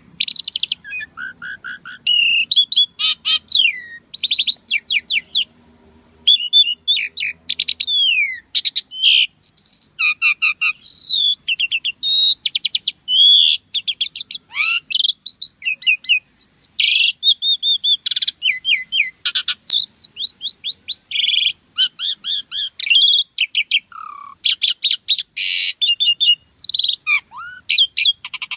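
Pied starling (jalak suren) singing energetically: a rapid, varied stream of whistles, gliding notes and rattling chatter, broken only by brief pauses.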